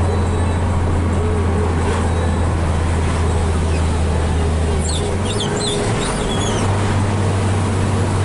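Diesel engine of a Hino 500 FM320TI tractor head droning steadily under load, heard from inside the cab. The engine note shifts slightly about five seconds in, and a few short high chirps follow.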